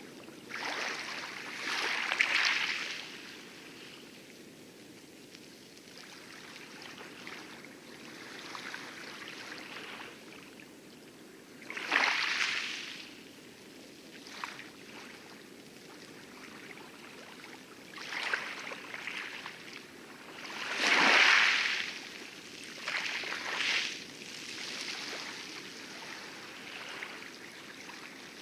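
Small lagoon waves lapping and splashing on coral in irregular swells, the loudest about 12 and 21 seconds in. Under them runs a steady low rumble of distant heavy surf.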